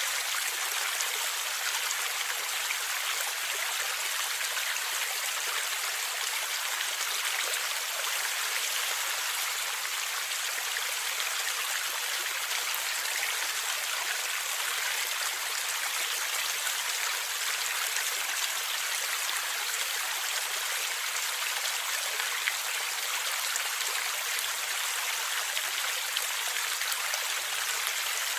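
Stream water flowing and gurgling over rocks in a steady, even rush, mostly high in pitch with little low rumble.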